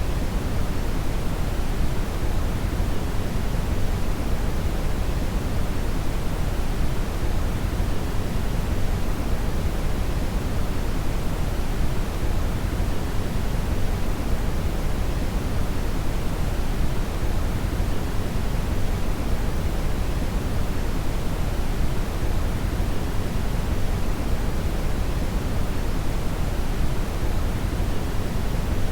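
Steady brown (red) noise: a deep, even rushing hiss, strongest in the low end and rolling off toward the treble, with no changes.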